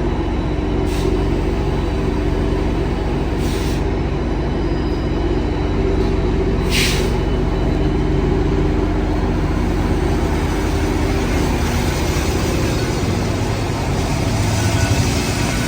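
Train passing close by: a steady low engine drone over the rumble of rolling rail cars, with three short hisses in the first half and the low drone swelling near the end.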